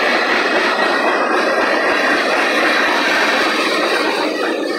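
Freight cars of a CSX manifest train, covered hoppers and tank cars, rolling past: a steady, loud rush of steel wheels on rail that eases slightly near the end.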